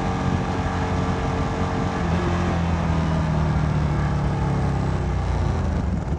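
Motorcycle engine running at road speed, its note steady with a small shift in pitch about two seconds in, under heavy wind noise rushing over the helmet microphone.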